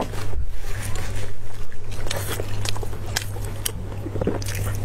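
Close-miked chewing of soft braised beef: wet mouth and lip noises with many short sharp clicks, over a steady low hum.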